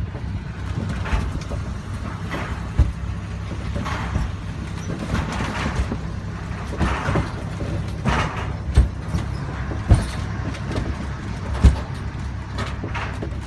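Small tourist mine train riding along its track: a steady low rumble with several sharp knocks and clanks.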